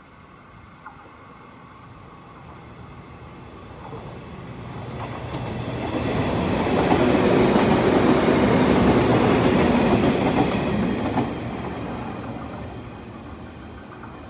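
A 415 series electric multiple unit runs past on the near track without stopping. It grows louder from about four seconds in, stays loudest for several seconds in the middle, then fades away.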